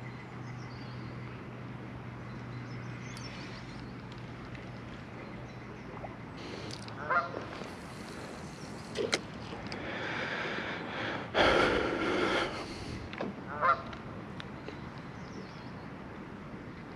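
Geese honking: a handful of separate calls spread over the stretch, the loudest and longest about two-thirds of the way through.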